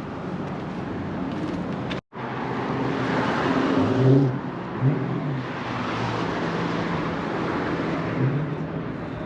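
A car engine revving and pulling away, its pitch climbing and dropping several times over steady outdoor traffic noise. The sound cuts out completely for a moment about two seconds in.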